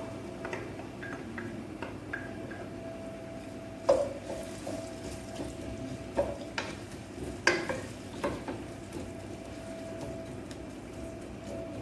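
Cooking utensil stirring and knocking in a frying pan, with sharp clacks about four seconds and seven and a half seconds in and a few lighter ones between, over a steady faint hum.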